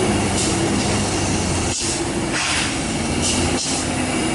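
Heavy truck's diesel engine running steadily, with several short hisses over it.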